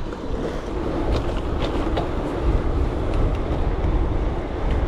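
Wind rushing over the microphone of an action camera on a moving bicycle, with a steady low rumble and a few light clicks about a second in.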